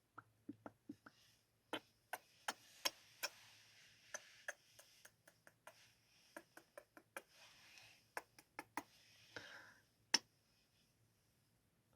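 ASMR kissing sounds close to the microphone: an irregular run of quick, soft lip smacks, with faint breathy hiss between some of them.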